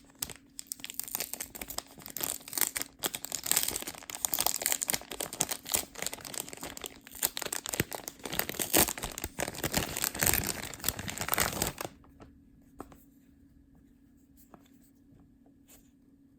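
Plastic packaging of a squishy toy crinkling and tearing as it is handled and opened, a dense crackle that stops about twelve seconds in.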